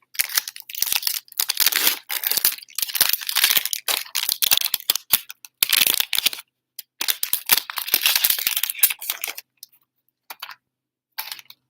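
A trading card pack's wrapper being torn open and crinkled, in irregular rustling bursts that stop about two seconds before the end.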